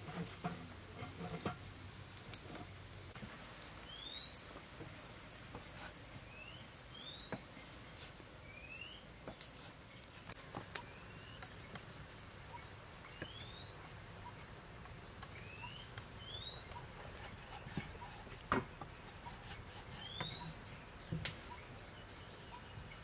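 A bird repeating a short rising chirp every second or two. A few sharp knocks of a kitchen knife on a wooden chopping board come through, the loudest about two-thirds of the way in.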